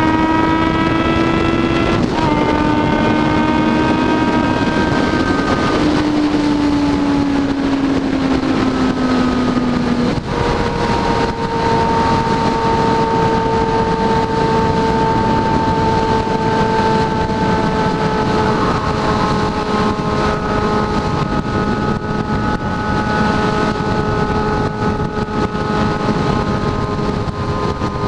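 Inline-four motorcycle engine running under way, loud throughout. Its note steps down a few times in the first ten seconds, then holds at a steady cruising pitch.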